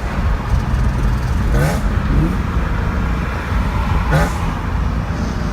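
Car engine running under acceleration, its note rising in pitch in short sweeps a few times.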